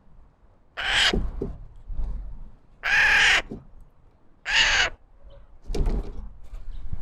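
A crow cawing outdoors: three harsh caws, each about half a second long and roughly two seconds apart.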